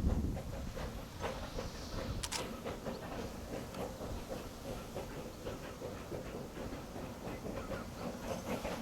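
A narrow-gauge steam-hauled coal train rolling by, its wagon wheels clicking and clattering over the rail joints over a low rumble. A brief sharp high-pitched sound cuts through about two seconds in, and again near the end.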